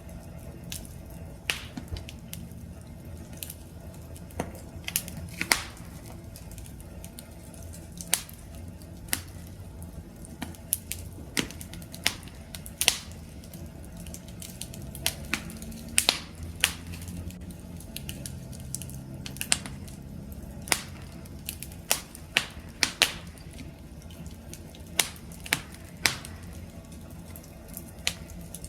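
Wood campfire crackling: irregular sharp pops and snaps, one or two a second and sometimes in quick clusters, over a low steady rumble of burning flames.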